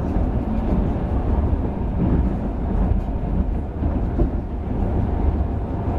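Steady low rumble of a moving passenger train, heard from inside the carriage: wheels running over the rails with the carriage's noise.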